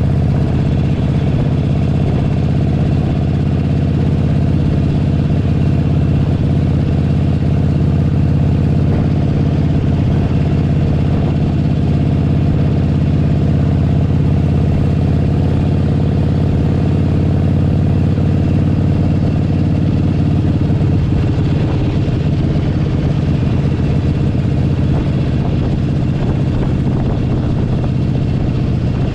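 Harley-Davidson Forty-Eight Sportster 1200's air-cooled V-twin engine running steadily at an even pitch, heard from the saddle.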